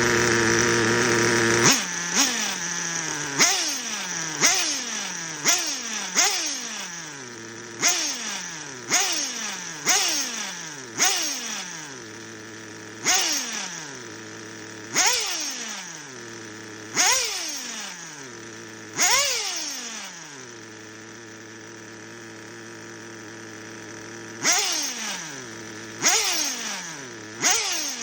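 OS Max 15CV two-stroke nitro engine in a Kyosho Superten FW03 RC car, held at high revs for the first second or two and then blipped over and over. Each blip is a quick rev that falls back to a steady idle within about a second. It idles steadily for a few seconds near the end before three more blips.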